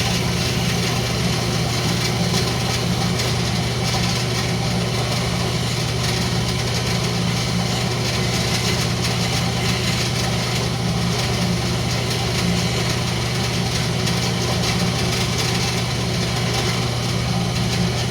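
Wood lathe running steadily, its motor giving an even hum with no cutting or catches.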